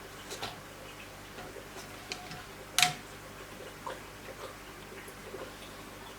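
Scattered light clicks and taps, with one much louder, sharper metallic click about three seconds in that rings briefly.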